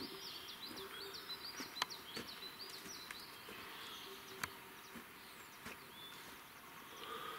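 Quiet night forest ambience: a rapid series of high chirps from a small creature for the first couple of seconds, a few fainter chirps later, and several sharp isolated clicks.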